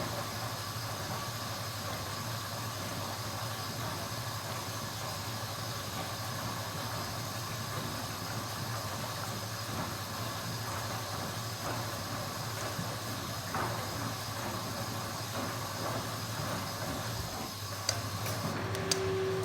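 Kenwood washing machine running with a steady hum and hiss. Near the end a few clicks sound and a new steady hum starts.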